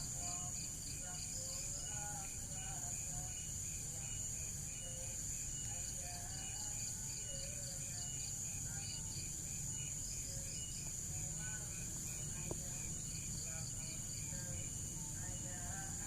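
Insects chirping in steady repeating pulses over a constant high insect drone, with scattered short bird calls and a low hum underneath.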